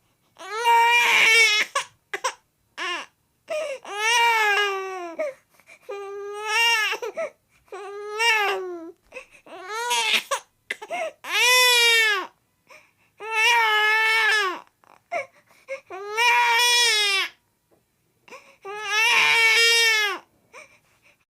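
A baby crying in about ten wails, each a second or so long and rising then falling in pitch, with short silent gaps between them.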